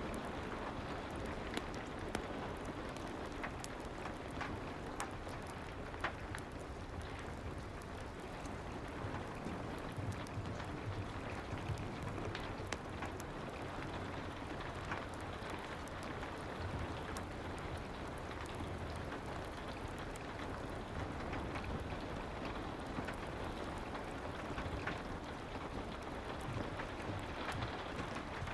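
Soft rain and fireplace ambience: an even, steady hiss of rain with a low rumble underneath and scattered small sharp clicks and crackles throughout.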